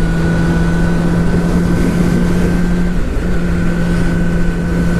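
Motorcycle engine running at a steady cruising speed under a low rumble. It holds one even pitch throughout, with a brief dip about three seconds in.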